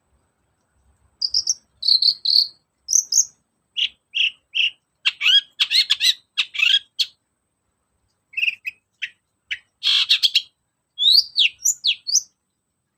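Long-tailed shrike (cendet) singing: a rapid string of short, sharp chirps and whistled notes, with a short pause about halfway and a few quick downward-sliding notes near the end.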